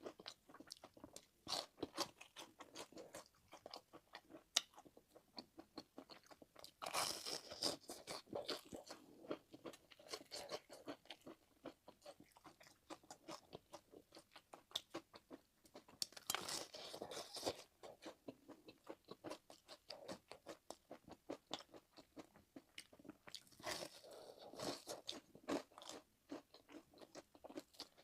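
A person chewing and biting a mouthful of egg fried rice and sausage close to the microphone: a fast run of wet mouth clicks and smacks, with three louder stretches of chewing about a quarter of the way in, halfway through, and near the end.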